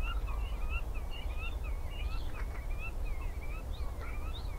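Birds calling: a rapid, continuous series of short slurred whistled notes over a low steady rumble.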